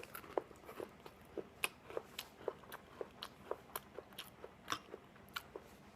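Someone chewing a waffle close to the microphone: a quick, even run of small moist, crunchy mouth clicks, about three a second.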